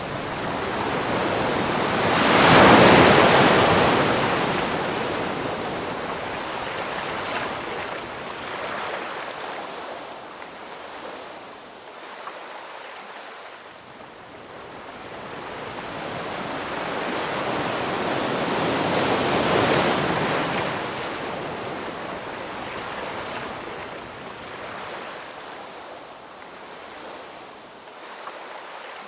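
Ocean waves breaking on a shore, with two surges: a loud one about three seconds in and a softer one near twenty seconds, each washing out and fading slowly.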